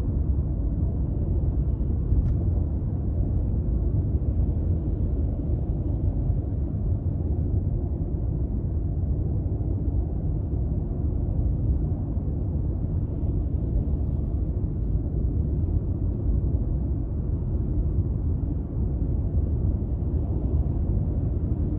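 Toyota Crown Athlete (200 series, 2.5 L V6) sedan cruising on the highway, heard from on board: a steady low road-and-tyre rumble with the engine's drone underneath.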